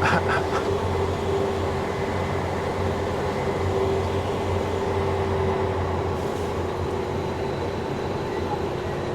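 Cummins diesel engine of a self-propelled sprayer running steadily, heard from inside the cab as a low drone with a steady whine that fades out about six seconds in. A few short clicks come right at the start.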